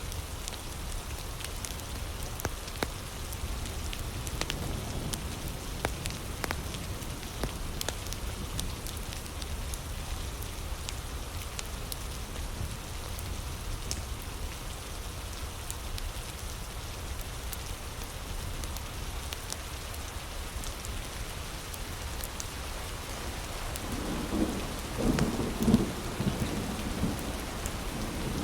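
Steady heavy rain with scattered sharp crackles from a wood fire. A low rumble of thunder builds near the end.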